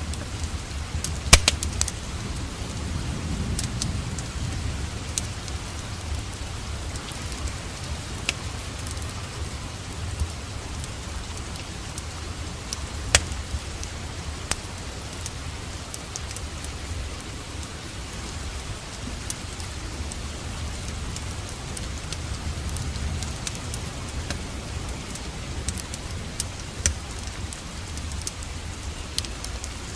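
Steady rain hiss mixed with a wood fire crackling, sharp pops scattered throughout, the loudest a little over a second in and another about midway.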